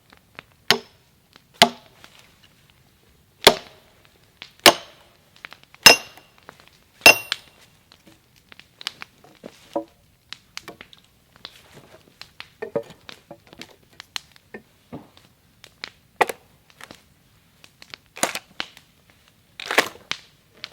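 Sledgehammer driving a steel splitting wedge into a chestnut log. There are about six hard blows in the first seven seconds, some with a ringing metal clink, then lighter knocks and three more heavy blows near the end.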